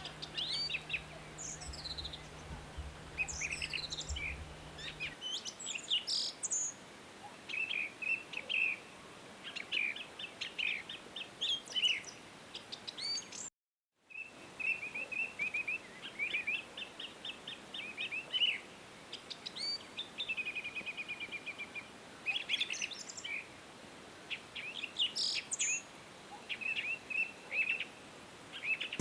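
Songbirds chirping and singing: many short, repeated high chirps and trills, several birds calling over one another. The sound cuts out briefly about halfway through, then the chirping carries on.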